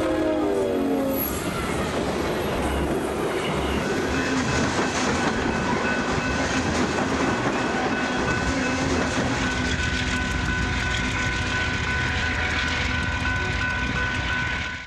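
Train horn sounding with its pitch falling, dying away about a second in, then the loud, steady rumble and clatter of a train running past at speed. A thin, steady high tone rides over it from about four seconds in.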